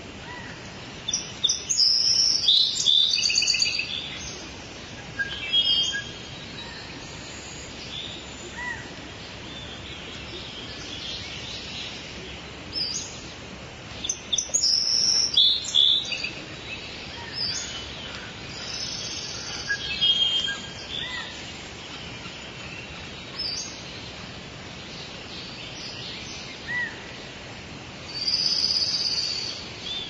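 Rainforest ambience: several birds calling and chirping in bursts over a steady background hiss. The busiest calling comes about a second in, again around the middle, and near the end.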